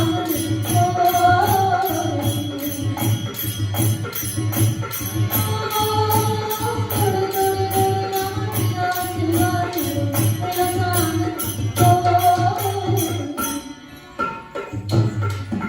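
Rajasthani folk music: a sung melody over a steady hand-drum beat and jingling percussion at about four strokes a second. It breaks off briefly near the end.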